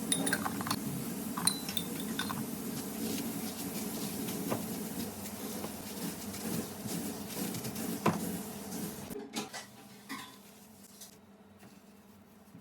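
Metal kitchen utensils clinking against dishes or pans several times, each strike ringing briefly, over a steady background noise that cuts off suddenly about nine seconds in.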